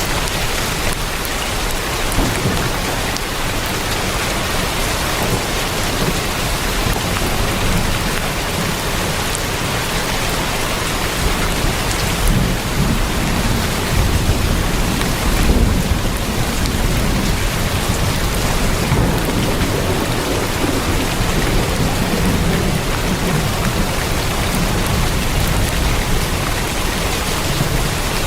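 Heavy rain drumming steadily on a tin roof, a dense unbroken patter, with low rolls of thunder rumbling beneath it in the middle.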